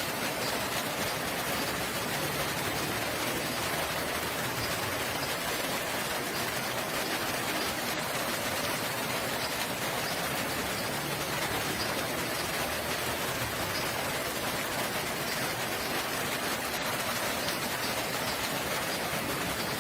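Steady rainfall, an even hiss of rain that keeps up without letting off.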